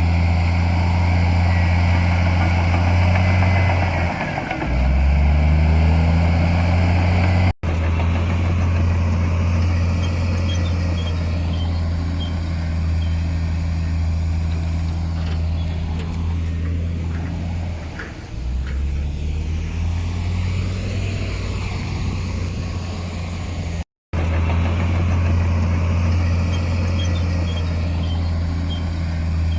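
Heavy diesel engine of earthmoving equipment running loudly and steadily. Its note sags twice as it comes under load and then picks back up. The sound cuts out briefly twice.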